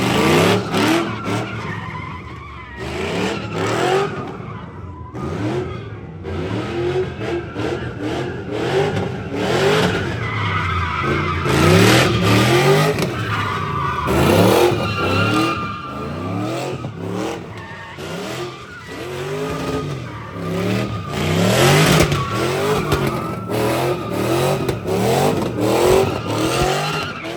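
Car doing a burnout: the engine revs up hard again and again while the tyres squeal and skid.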